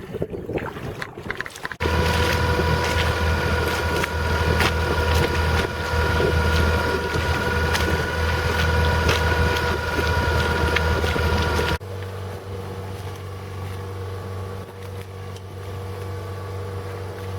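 A gasoline boat motor running steadily at a constant speed, heard in two separate stretches cut together: the first loud, the second quieter. Just before it, wind noise on the microphone.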